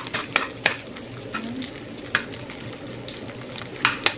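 Onions, garlic and ginger sizzling in hot oil in a pan, with several sharp clicks of a metal spatula knocking against the pan as it is stirred, the loudest near the start and near the end.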